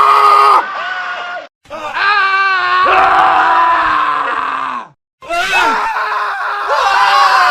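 Men's screams edited back to back, several different voices each held for one to three seconds, with sudden cuts to silence about a second and a half in and again about five seconds in. One scream wavers in pitch about two seconds in.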